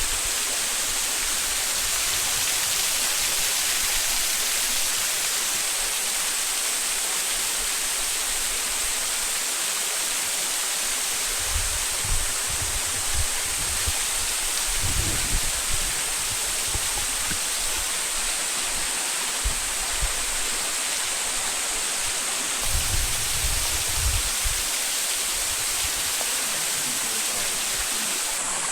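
Hiryu Falls waterfall rushing steadily, with a few brief low rumbles around the middle and again near the end.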